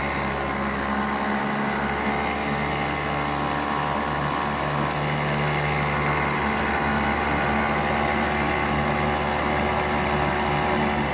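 Small outboard motor running at a steady speed, pushing a little boat along.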